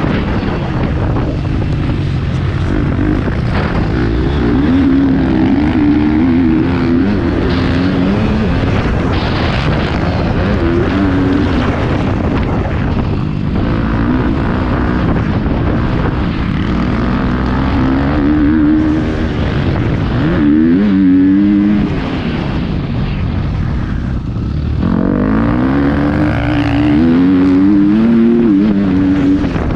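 Motocross bike engine ridden on the track, revving up and falling back again and again as the throttle opens and closes through turns and jumps, with a dip in revs a little past the middle.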